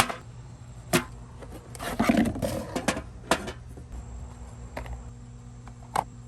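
2015 Chevrolet Silverado 2500's 6.0-litre V8 running steadily, with sharp, irregular chirps from the accessory drive and a short rougher noise about two seconds in. The owner describes it as a chirping or squeaking from the serpentine belt drive and blames the idler pulley, tensioner and belt.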